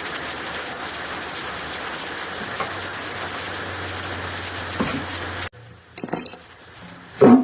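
A steady hiss with a low hum cuts off abruptly; then light metallic clinks and a loud knock, as of tools and engine parts being handled.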